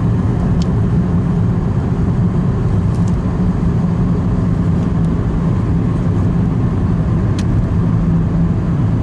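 Steady in-cabin drone of a moving car: engine hum and road noise, with a couple of faint clicks.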